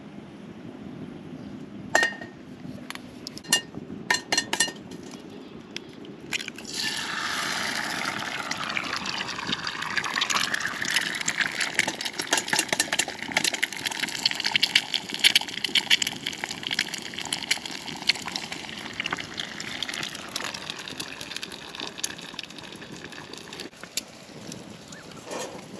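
A few light clinks, then water pouring or running into a container for about thirteen seconds, its pitch dropping at first and then holding steady, before it stops and a few more clinks follow.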